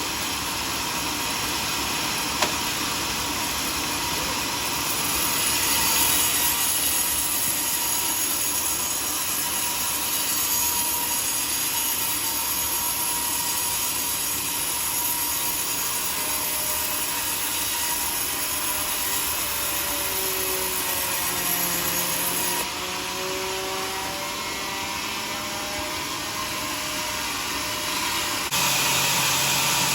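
Homemade sawmill saw running and cutting through a teak log: a steady mechanical whir, with the sound shifting abruptly about two-thirds of the way through and again near the end.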